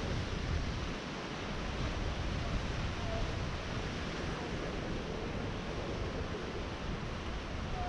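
Sea waves washing and breaking along the shore in a steady, unbroken rush.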